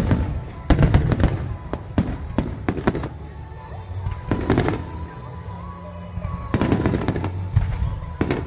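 Aerial fireworks bursting: clusters of sharp bangs, several in quick succession, each with a rumbling tail, coming every second or two.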